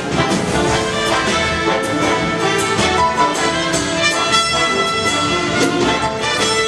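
Big band playing jazz live: brass section with trumpets and trombones over a steady drum kit groove.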